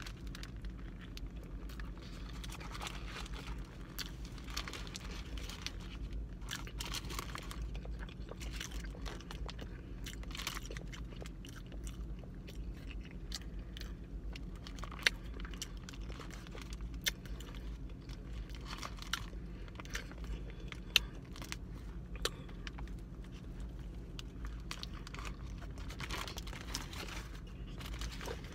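Close-up chewing of a BBQ pulled pork sandwich with crispy fried onions, heard as wet chewing and soft crunching with occasional sharp clicks, over a steady low hum.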